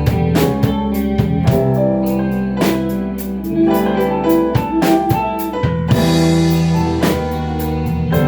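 Instrumental band music: a drum kit keeping a steady beat under sustained keyboard and guitar chords, with a cymbal crash about six seconds in.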